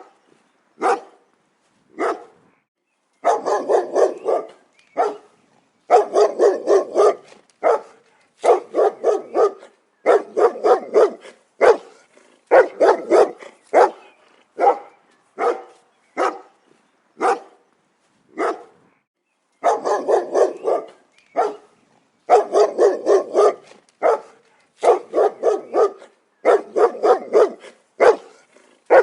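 A dog barking: a few single barks early on, then quick runs of several barks in a row separated by short silent gaps.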